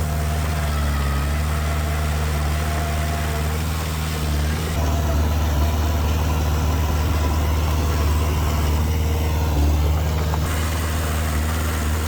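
Heavy diesel engine of earthmoving machinery running with a steady low drone, getting slightly louder about five seconds in.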